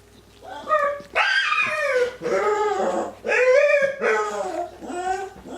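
Yorkshire terrier whining and yipping: a run of about five high, drawn-out calls that bend up and down in pitch.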